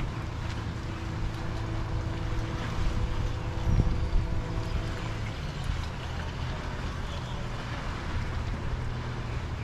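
A boat's engine running steadily with a low hum, while wind gusts on the microphone and water wash at the shore. The wind rumble is loudest about four seconds in.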